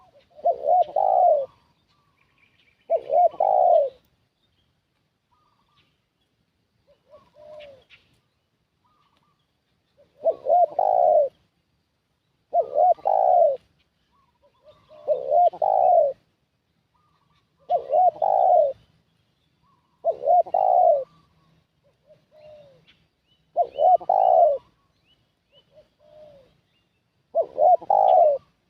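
Spotted dove (tekukur) cooing: about nine loud coo phrases, each about a second long, repeated every two to three seconds, with a pause of about six seconds after the second phrase. A few fainter, shorter coos fall between them.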